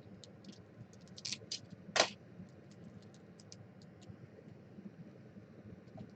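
Scattered light clicks and taps, with a louder click about two seconds in.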